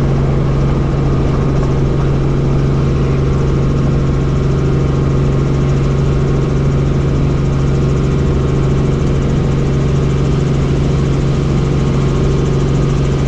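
Helicopter running: a loud, steady drone of turbine and rotors with a strong constant low hum.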